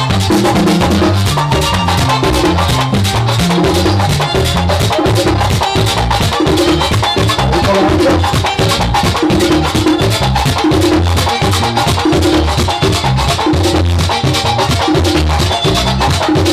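Live bachata band playing an instrumental passage: steady, dense percussion over a bass line, with no singing.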